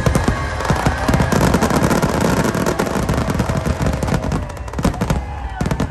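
A rapid barrage of fireworks bursting, many bangs and crackles a second, thinning out after about four and a half seconds. Music plays underneath.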